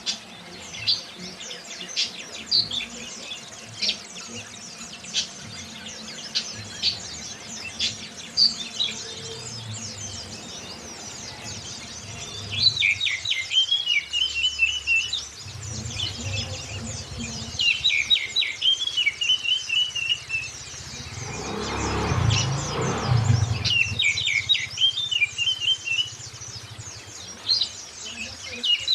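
Oriental magpie-robin and white-eye song on a lure recording meant to draw caged magpie-robins into song. Sharp separate chirps come roughly once a second at first. About halfway in, a phrase of quick falling notes ending in a short trill takes over and repeats about every five seconds. A broad rushing noise swells briefly about three-quarters of the way in.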